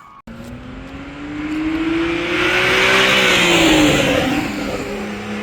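A car accelerating past, its engine note climbing in pitch, then dropping as it goes by, loudest about three to four seconds in before fading away.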